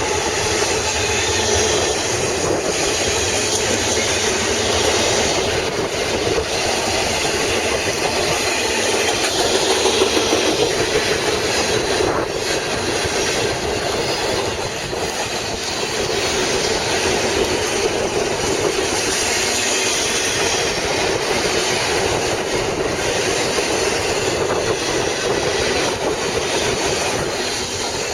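BNSF train rushing past at about 60 mph: a steady roar of steel wheels on rail with occasional clacks over the rail joints.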